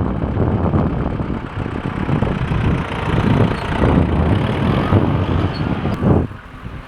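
Tractor engine running hard with a dense low rumble, which drops away suddenly about six seconds in.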